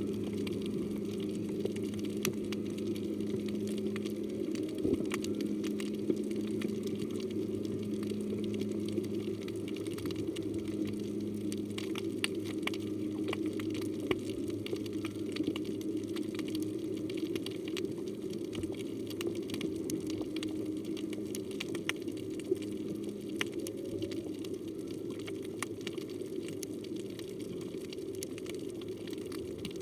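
Underwater coral-reef ambience: a dense crackle of scattered clicks over a steady low rush, with a faint low steady hum running beneath.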